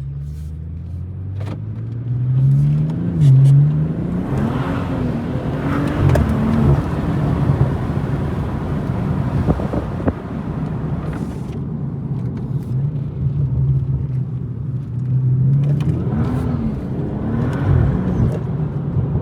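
BMW M240i's turbocharged inline-six pulling away and accelerating, its note rising over the first few seconds. The revs then rise and dip several times, with steady road and tyre noise underneath.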